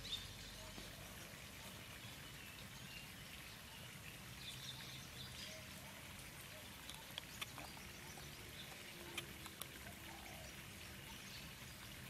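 Faint outdoor ambience with scattered short bird chirps and a few sharp clicks, most of them a little past the middle.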